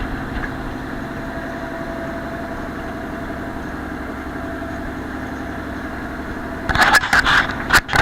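A motor yacht's inboard engine running steadily under way, a constant drone with a steady hum in it. Near the end, a few seconds of loud noisy bursts break over it.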